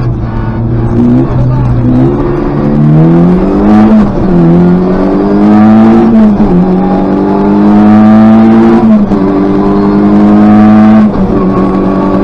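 Škoda Favorit rally car's 1.3-litre four-cylinder engine, heard from inside the cabin, pulling out of a slow turn and accelerating hard up through the gears. The pitch climbs and drops at gear changes about four, six and a half and nine seconds in, then the engine comes off the throttle shortly before the end.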